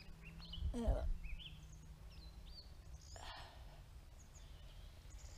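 Faint songbird chirps, a handful of short notes that rise and fall, over a low steady rumble; a short breathy voice sound about a second in is the loudest moment.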